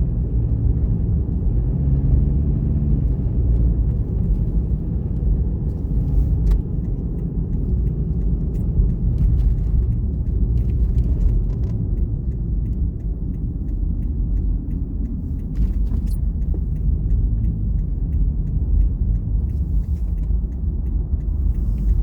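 A car driving along: a steady low rumble of engine and road noise, with a few faint ticks.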